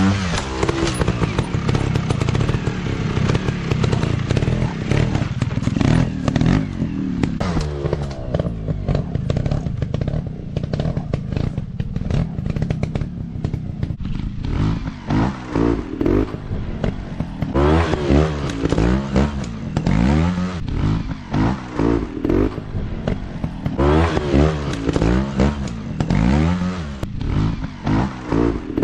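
Small 150 cc dirt bike engines revving up and down over and over in short throttle bursts, each rising then falling in pitch, over a background of clattering and scraping.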